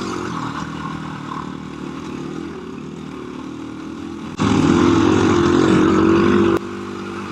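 KTM 350 EXC-F dirt bike's single-cylinder four-stroke engine running under way through whoops. About four and a half seconds in, the throttle opens and the engine runs louder and harder for about two seconds, then drops back sharply.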